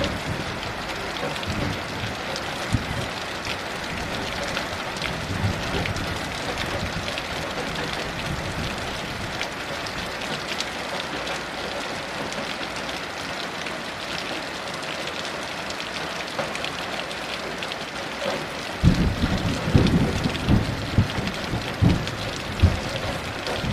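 Heavy rain falling steadily in a dense hiss, with low rolling thunder. The thunder rumbles faintly at first, fades through the middle, and swells again with uneven surges about five seconds before the end.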